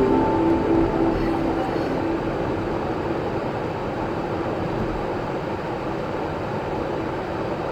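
Steady, even rushing noise, with the tail of a music track fading out in the first second or so.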